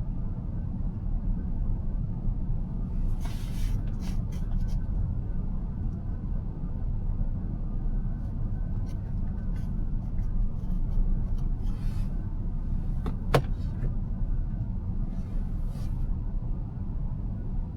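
Steady low road and tyre rumble of a car driving, heard from inside the cabin. Brief hissing swells come and go, and there is one sharp click about 13 seconds in.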